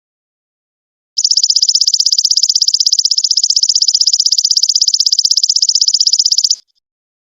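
Golden locust (belalang emas) calling: a high, rapidly pulsing buzzing trill that starts about a second in, holds steady for over five seconds and then stops.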